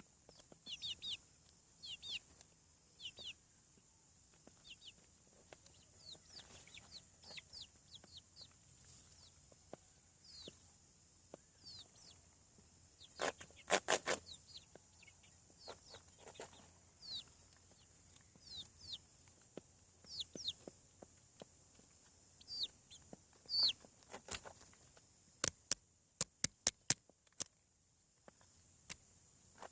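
Young chicks peeping with many short, falling, high-pitched cheeps. A brief clatter comes about halfway, and a quick run of sharp clicks near the end is the loudest sound.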